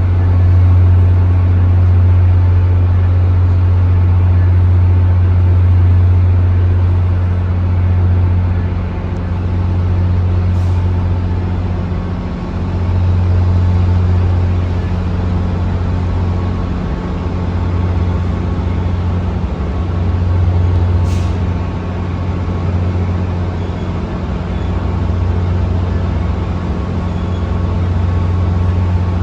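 Bus or subway train running steadily, a low hum that stays level throughout, with two faint ticks about a third and two thirds of the way through.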